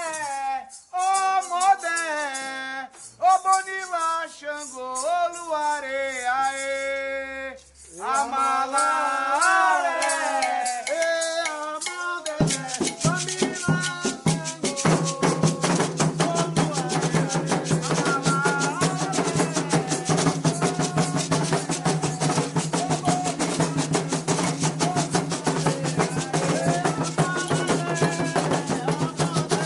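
Candomblé ritual song: a solo voice sings with a shaken rattle. About twelve seconds in, atabaque drums and more voices come in with a fast, steady beat.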